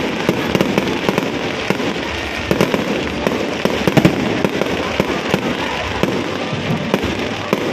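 Fireworks display: a dense, continuous run of bangs and crackling bursts, several a second.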